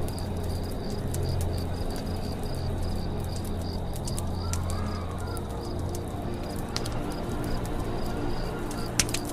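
Campfire crackling with scattered sharp pops, the loudest just before the end, over steady cricket chirping; a bird calls once, rising and falling, about four to five seconds in.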